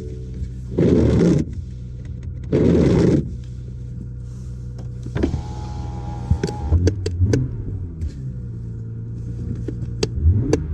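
BMW 440 Gran Coupe's turbocharged inline-six idling steadily, blipped twice in quick succession near the start as the accelerator is pumped. A short steady whine sounds in the middle, followed by several sharp clicks.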